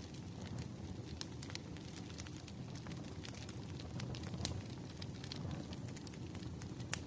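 Firewood burning with a steady low rumble and irregular sharp crackles and pops, one louder pop near the end.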